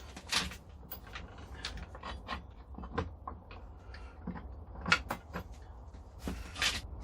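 Metal parts of a 2x72 belt grinder being handled and fitted into alignment: irregular clinks and knocks with a few short scrapes, the loudest scrapes about half a second in and near the end.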